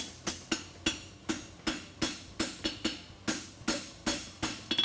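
Blacksmith's hammer striking a concave-stock horseshoe on an anvil in a steady rhythm, about three to four blows a second, each with a short metallic ring. The round side of the hammer is pushing the shoe's edge back in.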